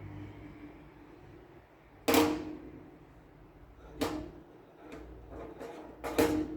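Three sharp knocks about two seconds apart, each with a short ringing tail, with a few fainter knocks between the second and third.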